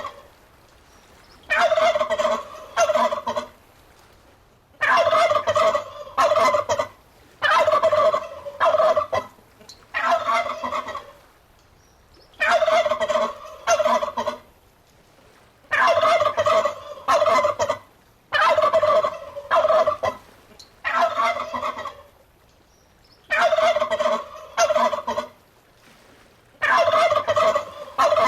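Turkey tom gobbling over and over: about ten gobbles, each a rapid rattling burst one to two seconds long, with short pauses between.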